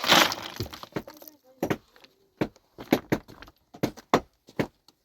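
A short rush of scraping rubble at the start, then a series of sharp knocks from a hand tool striking a hard surface, irregularly spaced at about one or two a second.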